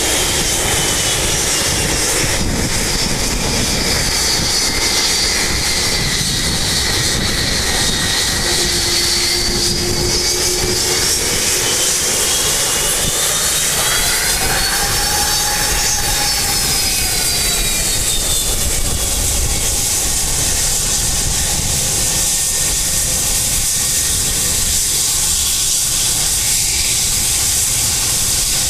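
Boeing 757 jet engines running at high thrust: a steady loud rush of jet noise with a turbine whine that slides down in pitch, rises again about halfway through and falls away.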